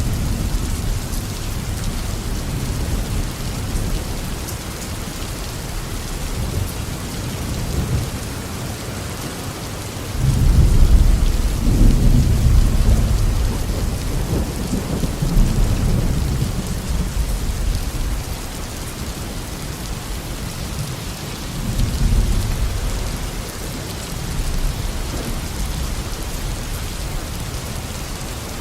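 Steady tropical rain falling on a garden, with rolling thunder rumbling underneath; a loud thunderclap breaks about ten seconds in and rumbles on for several seconds, and a smaller roll comes near the twenty-two-second mark.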